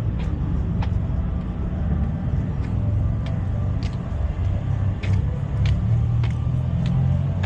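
Steady low engine rumble of idling vehicles, with light, evenly spaced clicks about every half second or so from a couple of seconds in.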